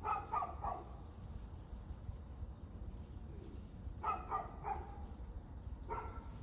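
A dog barking in short runs: three quick barks, three more about four seconds later, then a single bark near the end, over a steady low rumble.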